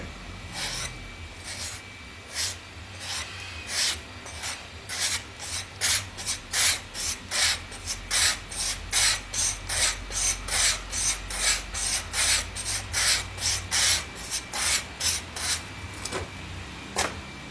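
Straight razor blade being stropped on a leather strap, with repeated back-and-forth scraping strokes. The strokes go at about two a second at first, speed up to about three a second through the middle, then slow and stop near the end. This is the final edge-finishing stage after sanding to 600 grit.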